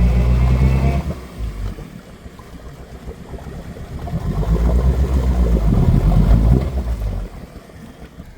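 Off-road vehicle engine revving hard while the vehicle works to back out of deep snow. It eases off about a second in, then revs up again for a few seconds before dropping back.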